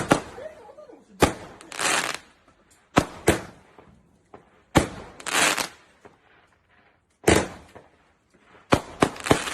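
A barrage of fireworks: a sharp bang, each followed by about half a second of fizzing crackle, repeating about every two seconds, five times.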